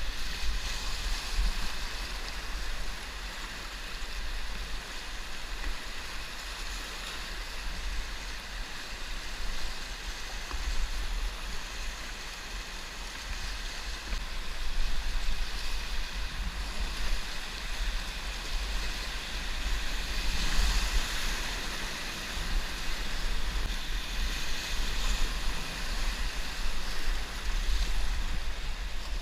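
River water rushing over rapids, with a low, gusty wind rumble on the microphone.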